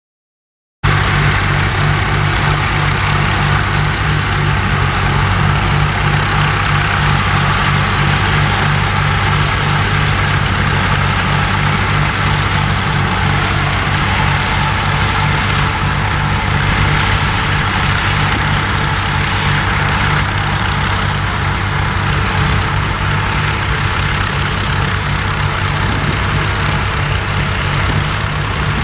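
A tractor engine running steadily and loudly, after a dropout of under a second at the start.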